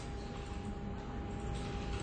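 Steady office room tone: a low even background noise with a faint constant electrical hum, and no keystrokes.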